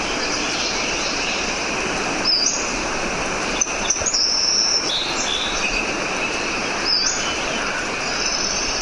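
Birds singing over the steady rush of flowing water, with a few high whistled phrases coming about two, four and seven seconds in.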